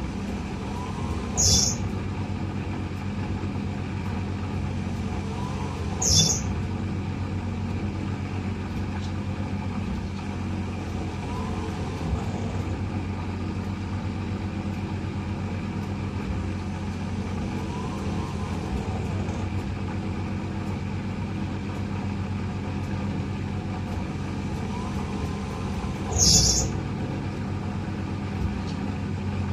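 Eudora 38 Super washing machine running, a steady motor hum with faint swishes repeating about every six seconds. Three short hisses come near the start, about six seconds in, and near the end.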